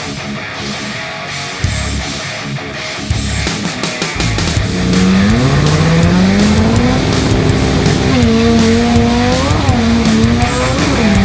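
Toyota drag car's engine revving up under rock music; from about four seconds in its pitch climbs and then holds high, with brief dips and jumps like gear changes.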